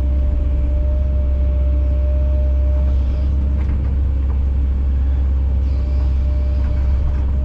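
Kobelco SK210 excavator's diesel engine running steadily under working load, a deep even rumble with a steady tone above it, as the machine pushes shot rock into place. A few faint knocks come through.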